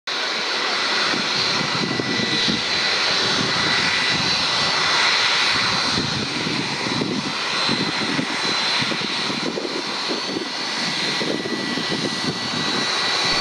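Jet engines of a Boeing 757-300 running at taxi power: a steady rush of engine noise with a constant whine held on through it.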